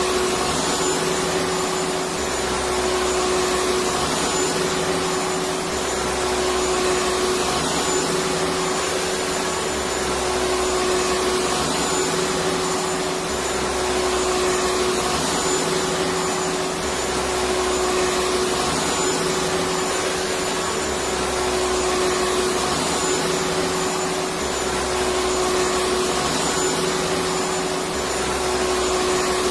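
Electric vacuum cleaner running steadily: an even rushing hiss over a constant hum, with the low end swelling and easing about every two seconds.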